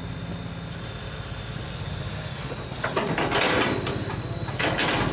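A vehicle engine running with a steady low drone. From about three seconds in come several loud, hissing or scraping bursts of noise.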